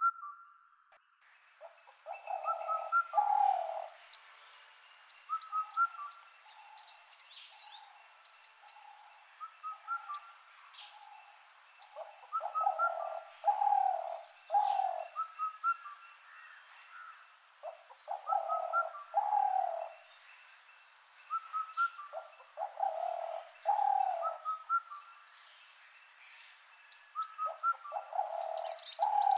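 Several birds calling: a low call of a few notes repeats about every five seconds, over many quick, high chirps and trills from other birds.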